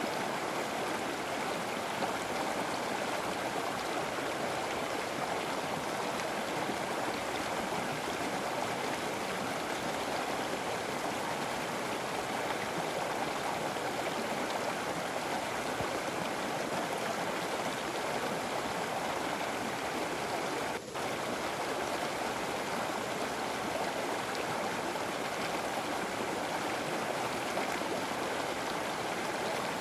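Flowing river: a steady rush of running water, with a momentary dropout about two-thirds of the way through.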